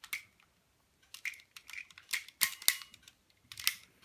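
Hard plastic parts of a Transformers Optimus Prime toy figure clicking and rattling as they are handled and fitted together, in short sharp clicks, bunched mostly in the second half.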